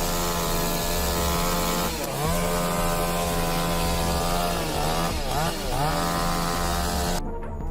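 Chainsaw running at high revs while cutting wood. Its pitch sags and recovers about two seconds in and twice more around five to six seconds as the chain bogs under load, and the sound cuts off abruptly shortly before the end.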